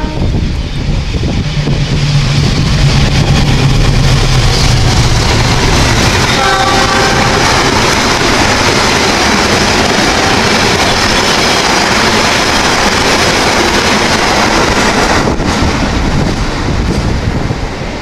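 Diesel locomotive and a rake of passenger coaches passing through a station. A low engine drone builds as the locomotive draws near, with a short horn blast about six seconds in. A long, loud run of wheel-on-rail noise follows as the coaches go by, easing off near the end.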